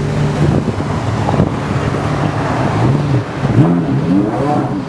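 Straight-piped Porsche Carrera GT's V10 running steadily, then revved in a quick series of rising blips over the last couple of seconds.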